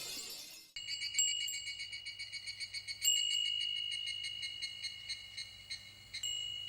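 Japanese furin wind bell ringing in a breeze: quick tinkling strikes of the clapper, each leaving a clear high tone ringing on. The strongest strike comes about three seconds in, and another comes near the end.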